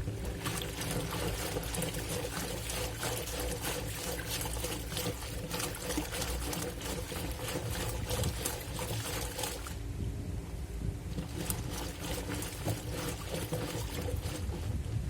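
Water sloshing and splashing in the tub of a Black&Decker washing machine as the wash load is agitated, over a steady motor hum. The splashing eases off for about a second, roughly ten seconds in.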